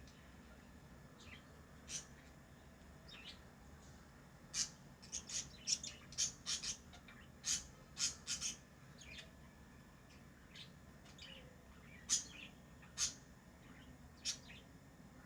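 Pet lovebirds chirping: short, sharp high-pitched chirps, a quick run of them from about four to nine seconds in, then a few single chirps near the end.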